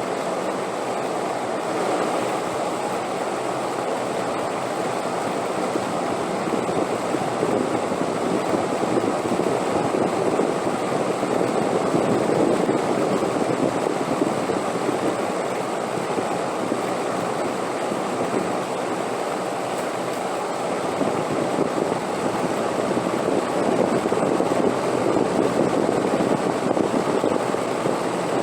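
Steady rushing wind, swelling louder in two gusts, about a third of the way in and again near the end.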